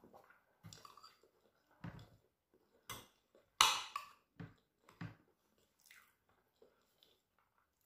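Close-miked chewing and mouth sounds of a person eating a meal of rice and fried plantain, in short irregular bursts. About three and a half seconds in there is one louder sharp sound, the loudest moment.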